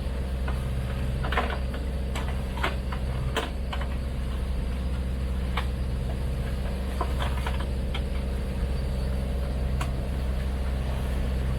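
A sailboat's inboard engine running steadily while motoring, a constant low hum, with scattered light clicks and knocks of hoses and plastic caps being handled and packed away.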